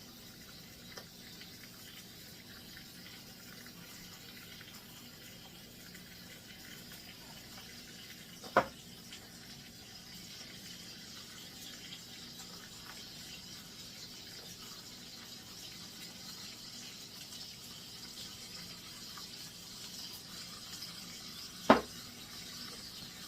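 Bone-in, skin-on chicken thighs sizzling skin-side down in oil in a crowded skillet: a steady, faint hiss that grows a little toward the end. Two brief sharp clicks, one near the middle and one near the end.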